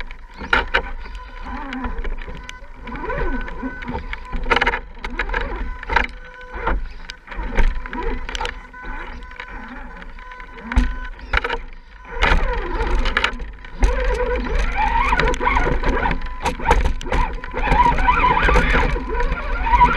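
Radio-controlled scale crawler truck driving: its electric motor and gears whine, the pitch rising and falling with the throttle, among scattered clicks and knocks. There is a steady low rumble under it.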